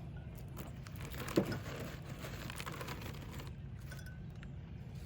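Scattered clinks and rattles of dishes and utensils, with one louder clatter about a second and a half in, over a steady low rumble.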